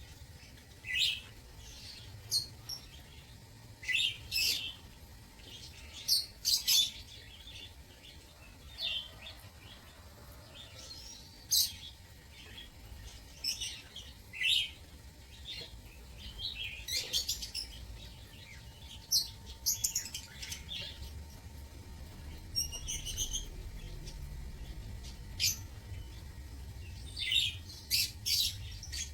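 Lovebirds giving short, sharp, high chirps, scattered irregularly through the stretch and sometimes several in quick succession, over a faint low rumble.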